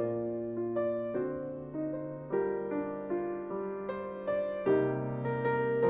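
Soft background piano music: slow notes and chords, each struck and left to fade.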